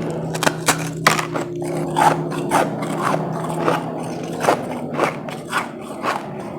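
Close-up crunching of refrozen powdery ice being bitten and chewed, in sharp irregular crunches about two a second, over a steady low hum.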